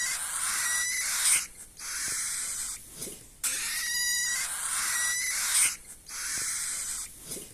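Parrot chicks, going by the tags cockatiel chicks, making raspy, hissing food-begging calls: about four long calls with short breaks between them.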